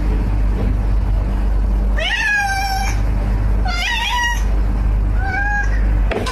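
Domestic cat meowing three times, each meow a short call that rises then falls, over a steady low hum.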